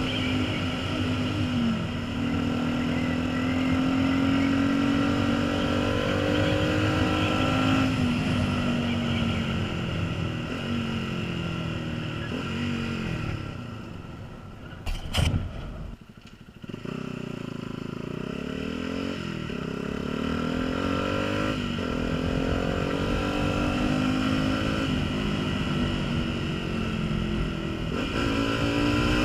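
Honda CBF125's single-cylinder four-stroke engine during a ride. It slows with the engine pitch falling and drops to a low, quiet tick-over a little past the middle, with a brief sharp click just before. It then pulls away, the engine rising in steps through the gears.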